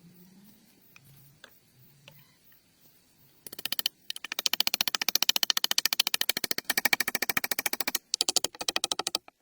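A rapid, even train of sharp clicks or clatters, about a dozen a second, starting about three and a half seconds in and breaking off briefly twice; before it only faint scattered clicks.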